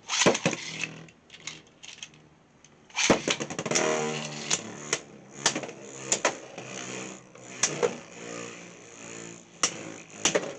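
Beyblade X spinning tops launched into a plastic stadium about three seconds in, then spinning with a steady whir and clacking sharply against each other again and again.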